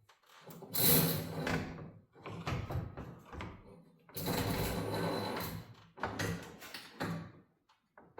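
A new garage door torsion spring being slid onto the steel torsion bar: metal scraping and rattling in several long strokes with short pauses between them.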